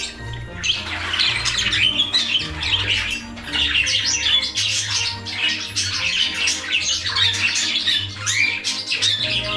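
Many pet birds, small parrots such as budgies and cockatiels among them, chirping and squawking at once in a continuous overlapping chatter, over background music.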